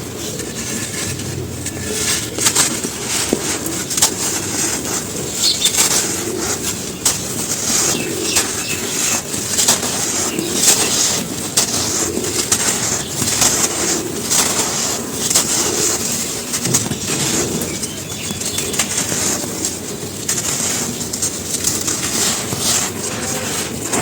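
Dry charcoal ash chunks being crumbled and crushed, a continuous dry crunching and crackling full of many sharp small snaps.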